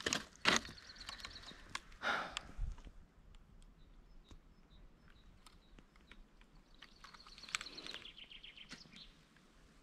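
Faint outdoor birdsong: a bird gives a rapid, high trill about a second in and again near the end, with a few soft clicks and a brief rustle in between.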